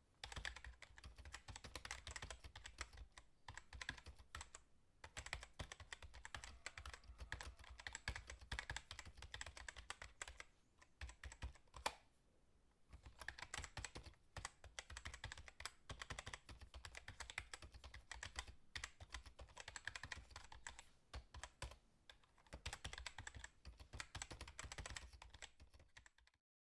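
Faint, rapid, irregular clicking like typing on a computer keyboard, with a short pause about twelve seconds in.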